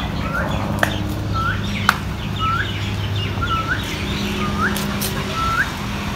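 A bird calling a short note that hooks upward, repeated evenly about once a second, over a steady low hum.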